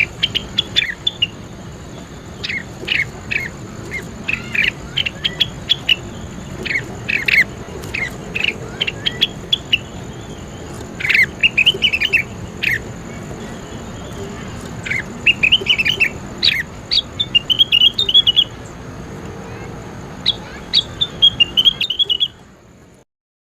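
A songbird calling: sharp, repeated chirps with short quick trills, over a steady high-pitched whine and background hiss. It cuts off suddenly near the end.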